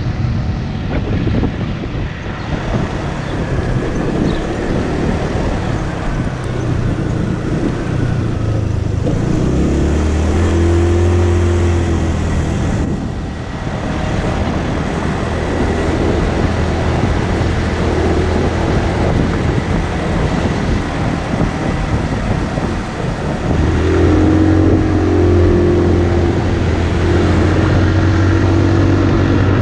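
Motorcycle engine running while riding, mixed with a constant rush of wind and road noise. The engine note swells about a third of the way in, drops away briefly, and comes back stronger for the last few seconds.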